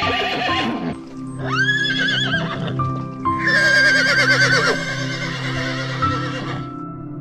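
Horse whinnying in three calls with a quavering pitch: one dying away about a second in, a shorter one shortly after, and a long one of about three seconds from the middle on, over soft background music.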